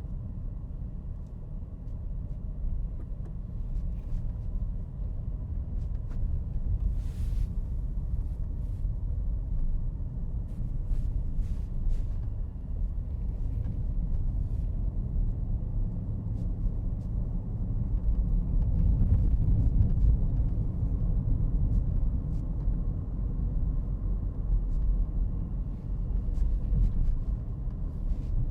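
Motor vehicle road noise: a steady low rumble that swells about two-thirds of the way through, with a few faint clicks.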